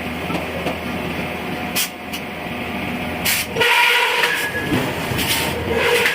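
Forging work on iron: a few sharp knocks, then from about halfway repeated strikes with a ringing tone and a hiss, coming about every second and a half.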